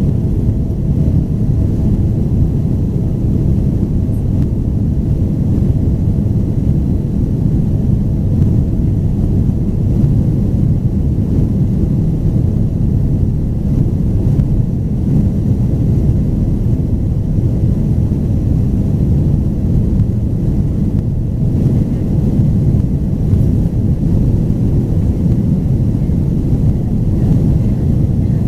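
Steady, loud low rumble inside the cabin of a Boeing 767-400ER, from its twin General Electric CF6-80C2 turbofan engines and the airflow, heard from a seat in the rear cabin.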